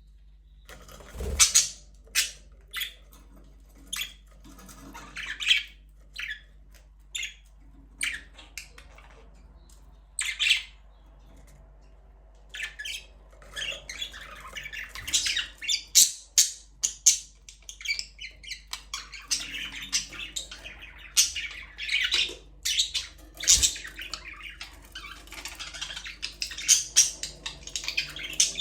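Budgerigars chirping. At first the calls come one at a time with gaps between them. About halfway through they thicken into near-continuous chatter.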